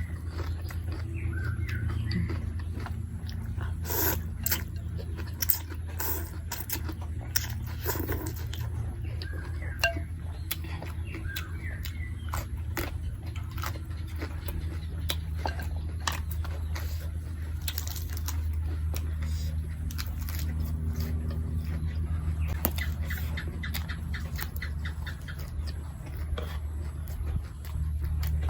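Person eating noodle soup: chewing and slurping, with many short, sharp clicks scattered throughout, over a steady low hum.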